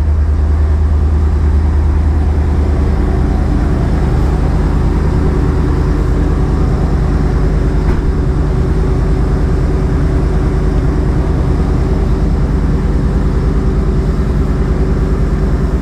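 1992 Chevrolet Silverado Sport's engine idling steadily on a cold start, after sitting unstarted for three weeks.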